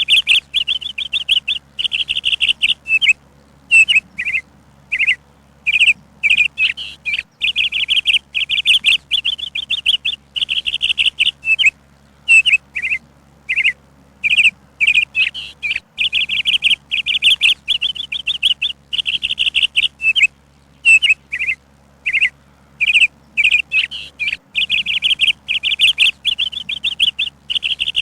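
Songbird chirping in quick trilled bursts, each about half a second to a second long, repeating one after another with only short gaps.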